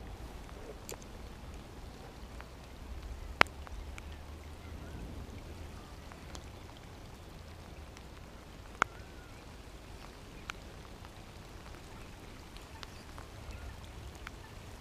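Light rain falling on a pond: a steady soft hiss with scattered sharp ticks, two of them louder, about three and a half and nine seconds in.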